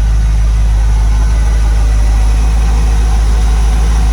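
1961 Ford Econoline pickup's engine idling steadily, a loud, even, low-pitched rumble.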